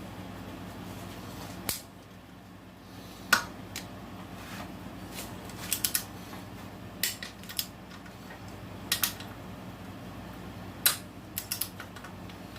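Ratchet of a torque wrench clicking in short runs of two or three as engine bolts are tightened in stages, over a steady low hum.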